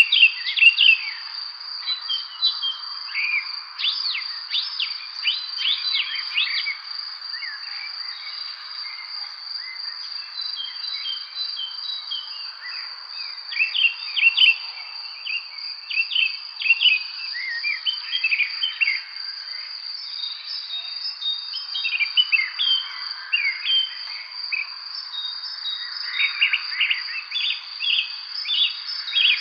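Evening spring birdsong: many songbirds chirping and trilling in overlapping bursts, denser near the start, in the middle and near the end, over a steady high-pitched insect trill.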